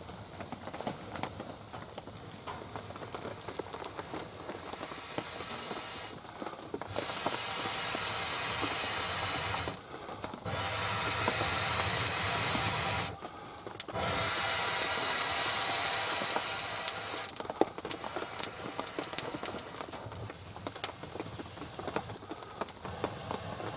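Wood fire crackling and hissing in the firebox of a homemade steel barrel oven, burning off oil residue, with rain falling. Three stretches of louder steady hiss start and stop abruptly in the middle.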